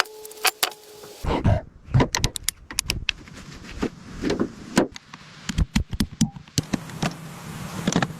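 Workshop handling noises: an irregular string of sharp clicks, knocks and clunks, with a short steady hum in the first second.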